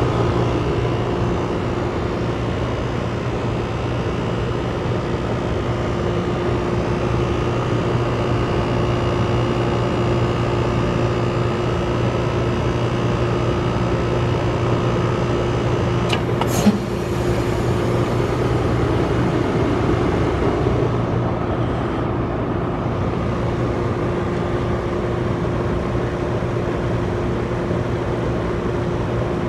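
2020 Ruud Achiever RP14 heat pump running in its defrost cycle: a steady mechanical hum, with one sharp click about 17 seconds in.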